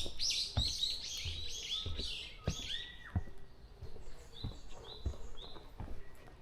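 Wild songbirds singing: a rapid run of high chirping notes for about the first three seconds, a single falling whistle, then three short, evenly spaced notes a little later. Low footstep thuds fall about every half second underneath.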